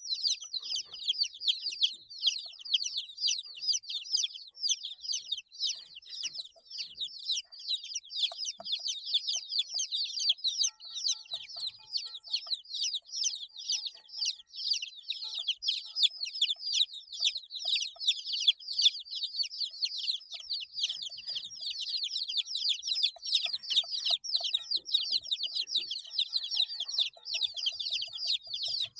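A brood of 8-day-old baby chicks chirping: a dense, continuous flurry of rapid high-pitched peeps from many chicks at once.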